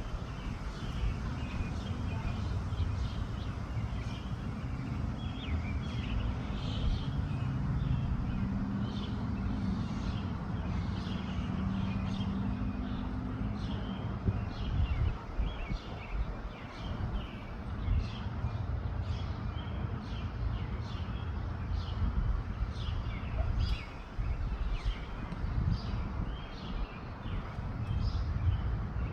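Wind buffeting the microphone with a low, uneven rumble, while small birds chirp over and over in short high notes. A low steady hum, like a distant engine, rises and fades over several seconds in the first half.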